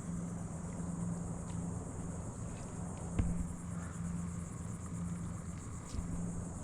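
Steady high insect buzzing over a steady low hum, with a few light knocks about three seconds in and again near the end.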